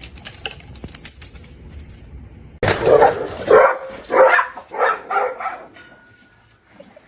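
A dog barking loudly in a quick run of about five barks, coming in suddenly after a couple of seconds of light clinking.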